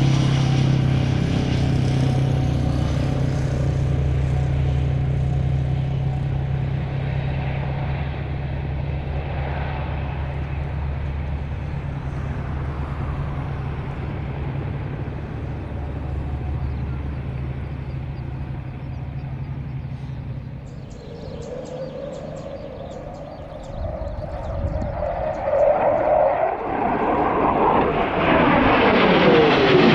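Aircraft engine noise: a steady low drone eases off over the first twenty seconds and stops, then another aircraft approaches and passes loudly near the end, its pitch sliding down as it goes by.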